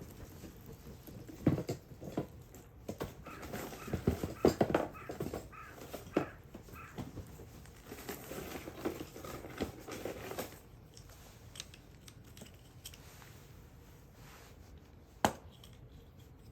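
Wood campfire crackling: irregular pops and snaps, busiest through the first two-thirds, then quieter with one sharp pop near the end.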